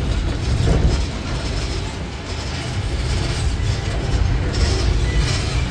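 Disneyland parking tram riding along, a steady low rumble of the tram running, heard from on board.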